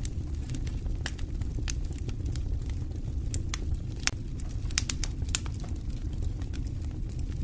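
Wood fire burning in a fireplace: a steady low rush of flames with irregular sharp crackles and pops, a few louder pops around the middle.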